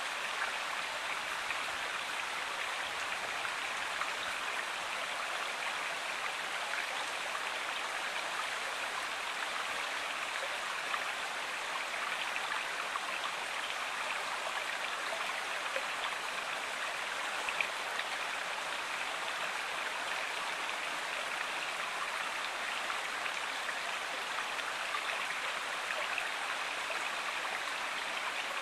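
Water of a stream or river running steadily, an even rush with no breaks.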